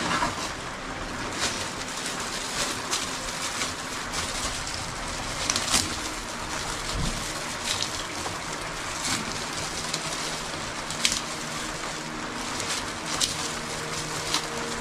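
Steady rain, an even hiss with scattered sharp drips of water.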